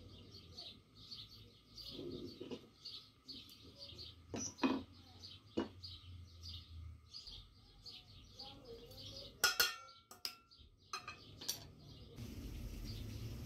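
A bird chirping over and over, about three short chirps a second, with a few sharp metallic clinks and knocks as steel hand tools (hammer, pliers, knife, steel sinker mould) are handled and set down on a wooden stump. The chirping fades out about two-thirds of the way through.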